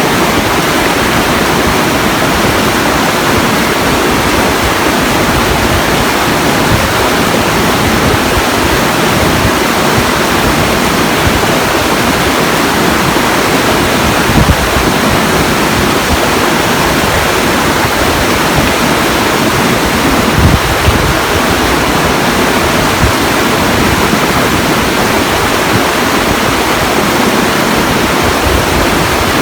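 Steady, loud rushing water with a shifting low rumble underneath, briefly louder twice around the middle.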